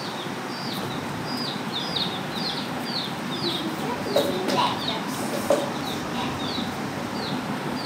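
A small bird chirping over and over, short high falling chirps about two a second, over a steady background hiss. A couple of brief louder sounds come near the middle.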